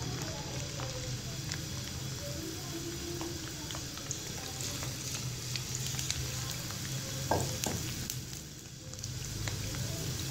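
Sliced bitter gourd frying in hot oil in a nonstick pan on high flame: a steady sizzle with crackling pops, as the pieces are stirred with a metal slotted spoon.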